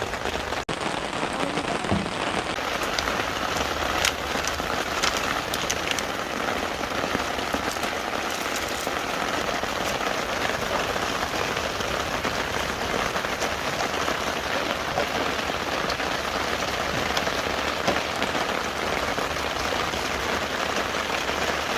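Steady rain falling, with scattered individual drops ticking sharply over the hiss.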